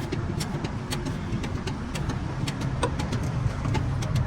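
A motor vehicle's engine running steadily with a low rumble, with many light clicks or taps scattered irregularly over it.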